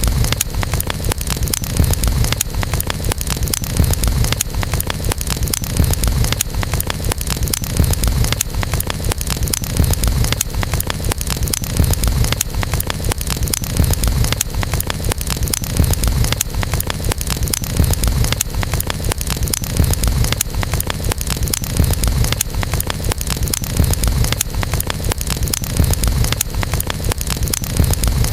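Wood fire crackling steadily, with many small pops and snaps over a constant low rumble.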